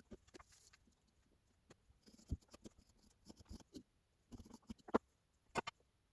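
Scattered light clicks and knocks at irregular intervals, with sharper knocks about two and five seconds in.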